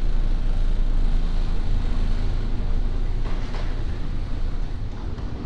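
A steady low rumble of background noise, heaviest in the bass, with a brief hiss about three and a half seconds in.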